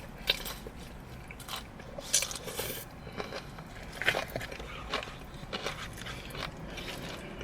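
Close-up eating sounds: chewing and crunching on crispy fried chicken, with scattered crackles and smacks.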